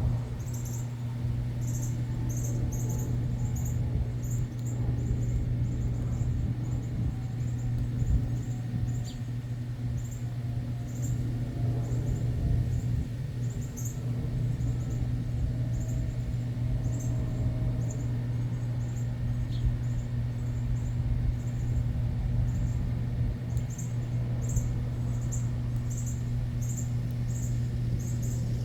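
Small birds chirping in short, high notes, scattered through the whole stretch, over a steady low hum.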